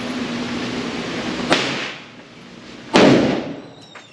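Two sharp, loud bangs about a second and a half apart, the second the louder, each dying away quickly; gunshots at a shooting range. A steady background noise stops at the first bang.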